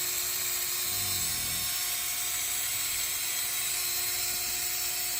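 Power drill running at a steady speed, its spinning metal tubing winding fishing line off a rod's reel, with a steady high whine.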